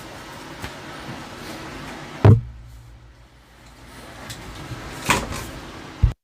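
Knocks and clunks of parts being handled during the amplifier's disassembly: one loud clunk about two seconds in and a few lighter knocks near the end, over a steady fan-like hum.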